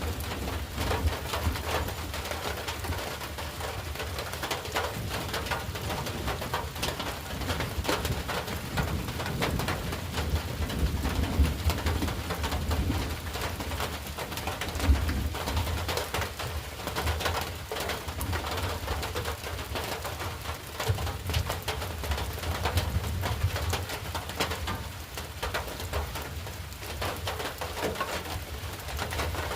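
Rain falling and pattering on surfaces: a steady hiss dotted with many small drop taps, over a low rumble.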